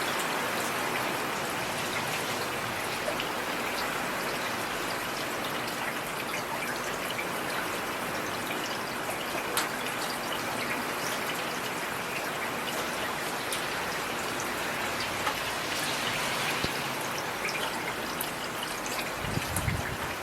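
Heavy rain falling steadily: a dense, even hiss with scattered sharper drop taps. A low rumble swells in near the end.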